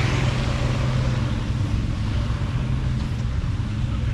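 An engine running steadily nearby, a constant low hum with a rumble underneath.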